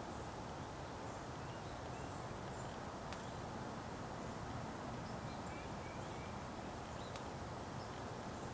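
Winter outdoor ambience: a steady low hush, with faint short bird chirps scattered through it. There is a quick run of three chirps about six seconds in, and a few sharp ticks.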